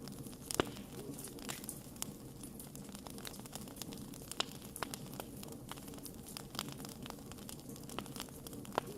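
Wood fire crackling: irregular sharp pops and snaps from burning wood over a steady low rush of flame, with a louder pop a little over half a second in and another near the end.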